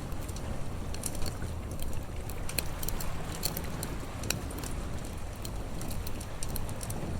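Campfire crackling, with irregular sharp pops and snaps over a steady low rumble of sea waves.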